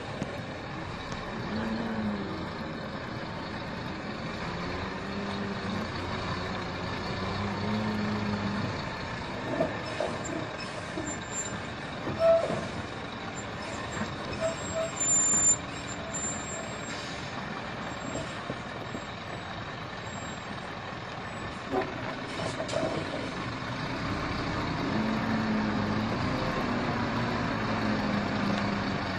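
Heavy diesel truck engine labouring and revving, its pitch rising and falling as the driver works the throttle. Brief sharper sounds and a short high squeal come about halfway through.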